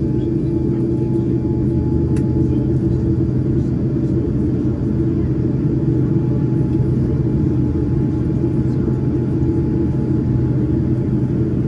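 Steady cabin rumble of a Boeing 787-9 airliner with its GEnx engines running, heard from inside the cabin. A faint click about two seconds in.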